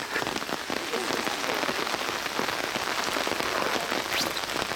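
Steady rain falling and pattering on surfaces: an even hiss made of many small drop ticks.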